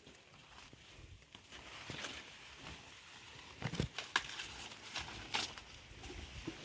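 Rustling of corn plants with a handful of sharp snaps and cracks, mostly in the middle, as ears of green corn are picked by hand.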